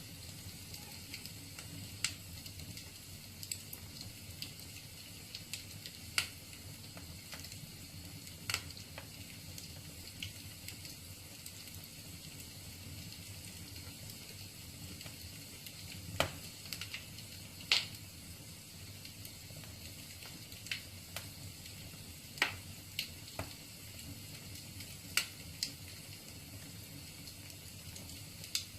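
Wood fire burning in a fireplace: a steady soft rush of flame with sharp crackles and pops of the burning logs at irregular intervals, one every second or few.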